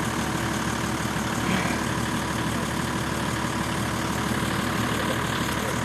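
4x4 engine idling steadily under a constant rushing noise.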